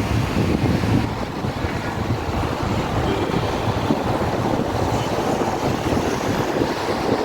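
Wind buffeting the microphone over steady road traffic noise.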